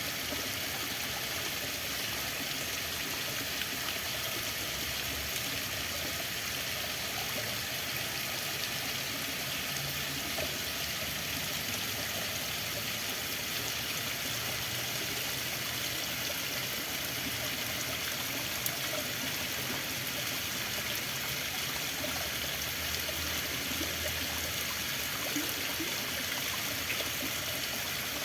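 Flowing water rushing and trickling steadily, an even hiss with a few faint ticks.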